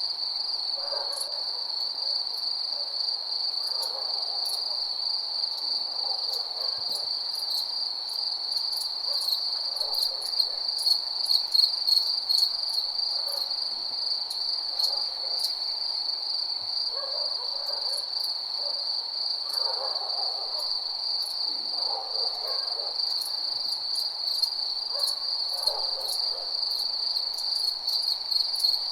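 Night chorus of crickets: a steady high trill, with fainter, lower calls coming and going every few seconds.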